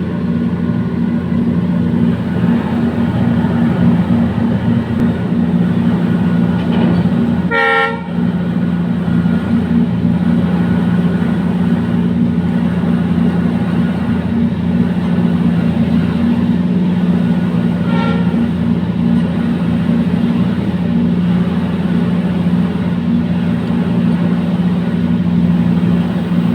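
Indian Railways WDG diesel locomotive running with a steady low engine drone, hauling hopper wagons. A short horn toot sounds about eight seconds in, and a fainter one around eighteen seconds.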